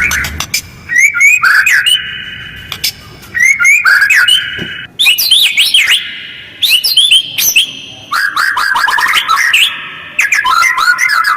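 White-rumped shama (murai batu) singing a lure song in quick, harsh, rapid-fire phrases of upswept whistles and rattles, with only short pauses between them.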